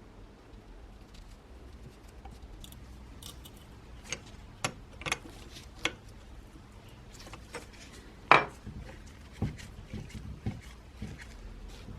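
Metal parts and tools clinking and knocking in a run of separate strikes, with the loudest knock a little past the middle.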